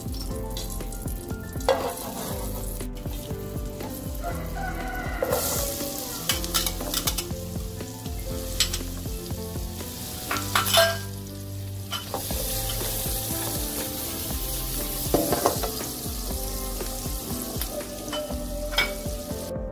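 Diced guanciale and red onion sizzling in hot oil in a frying pan while being stirred, with scattered clicks and scrapes of a metal slotted spatula against the pan.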